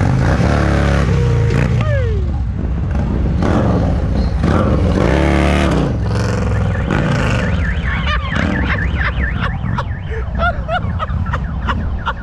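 Motorcycle engines running in a low, steady rumble, with warbling pitched tones rising and falling over it in the second half.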